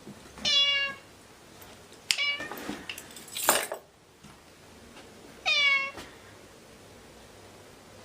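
A cat meowing twice, two short, even-pitched calls about five seconds apart. Between them come a sharp click, a rougher cry and a brief harsh noisy burst about three and a half seconds in, as loud as the meows.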